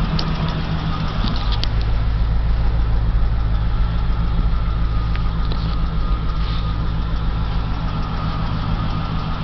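A 1989 Dodge Ram's 318 fuel-injected V8 idling steadily.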